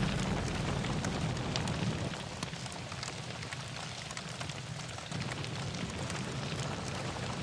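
Forest fire burning: a steady hiss with many small sharp crackles and pops, over a low rumble that eases after the first couple of seconds.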